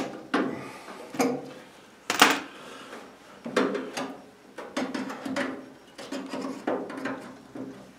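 Irregular metallic clanks and scrapes, about one or two a second, each ringing briefly: hand tools worked against a stuck rivet in the sheet metal of a stainless-steel extractor hood.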